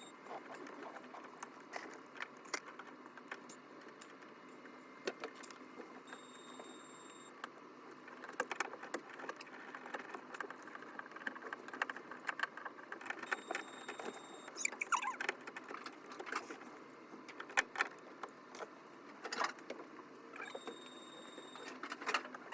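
Scattered clicks, taps and light rattles of hand work, with a few short squeaks. A faint high beep repeats about every seven seconds.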